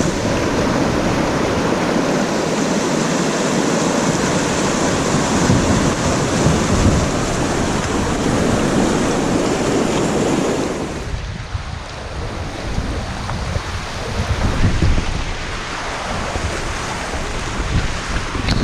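Loud, steady rushing of river water with wind buffeting the microphone. It eases about eleven seconds in, leaving lower, uneven rumbles.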